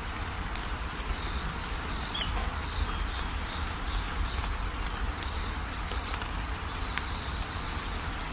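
Steady rain falling, with a songbird chirping in quick repeated runs of short notes over it.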